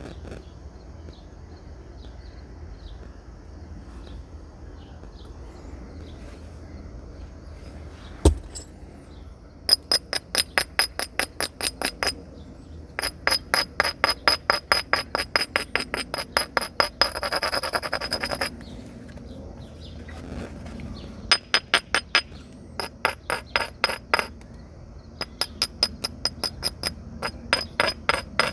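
Flint nodule being knapped with a natural tool: one hard percussion strike about eight seconds in, then several runs of quick, light clinking taps on the flint, about six a second, with a glassy ringing.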